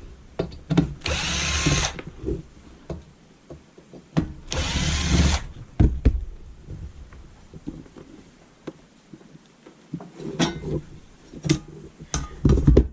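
Power drill-driver spinning up and running in two short bursts of about a second each. Near the end come scattered clicks and knocks of hard parts being handled.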